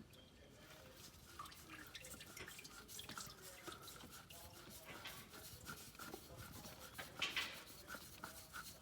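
Faint, irregular dripping of engine oil, with small handling noises, while the oil filter is being spun off by hand during an oil change.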